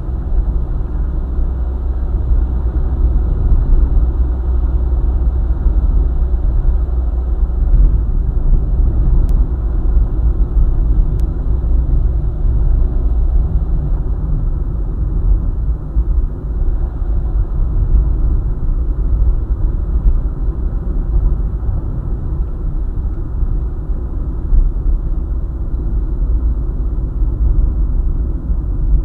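Car driving along a highway: a steady low rumble of tyres on the road and engine.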